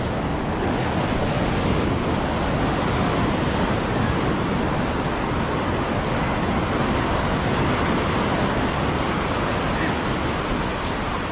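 Surf breaking on a sandy beach, a steady wash of waves.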